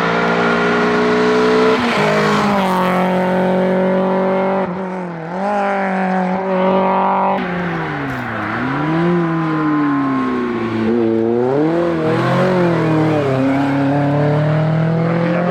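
Renault 19 16V and then Renault Clio 16S hillclimb cars, each with a 16-valve four-cylinder, driven flat out. The engine note climbs hard, drops sharply at gear changes and lift-offs, and climbs again, several times over.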